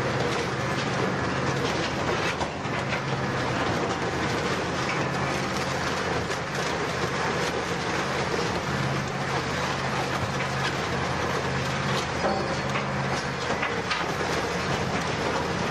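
A scrap-metal shredder tearing up a Volkswagen Golf: continuous grinding and crunching of sheet metal with many small clanks, over a low machine hum that comes and goes.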